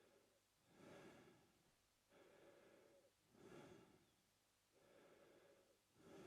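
A man breathing slowly and steadily through his mouth, quietly. A softer, lower breath alternates with a louder, airier one, about one full breath every two and a half seconds.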